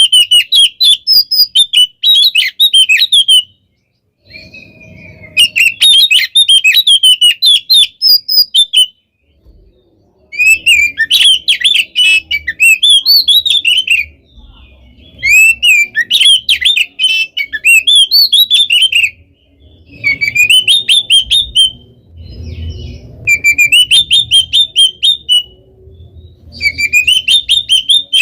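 Oriental magpie-robin (kacer) in full song: repeated phrases of rapid, varied, swooping notes, each a few seconds long, broken by short pauses.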